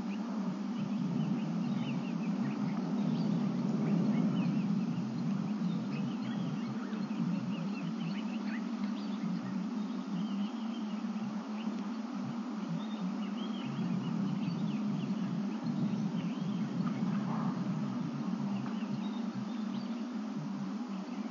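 Wild birds chirping and calling in many short, scattered notes over a steady low background rumble.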